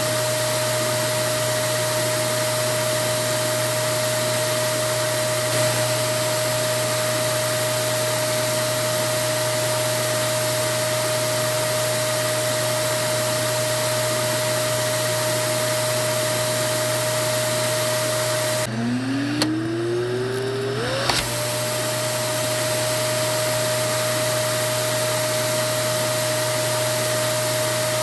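Vacuum cleaner motor running steadily with a constant whine. About two thirds of the way in the sound briefly drops, then the motor spins back up with a rising whine and settles into steady running again.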